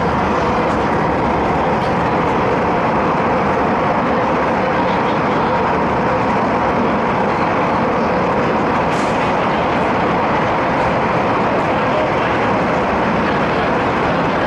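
MTR East Rail Line MLR electric train running at speed through a long tunnel, heard inside the carriage: a loud, steady rumble of wheels on rail and running gear, with a faint steady whine held throughout.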